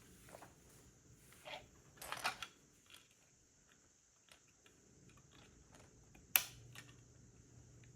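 Plastic Lego pieces being handled and pressed together: scattered small clicks and rustles, a denser clatter about two seconds in, and one sharp snap about six seconds in, the loudest sound.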